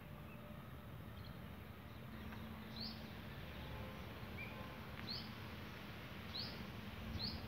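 Quiet outdoor background with a small bird giving short high chirps four or five times, a second or two apart, over a faint steady low hum.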